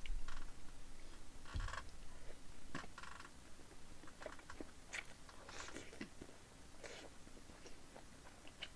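Chewing of braised spicy chicken (dakbokkeumtang): soft wet chewing and smacking with irregular small clicks, and a dull knock about one and a half seconds in.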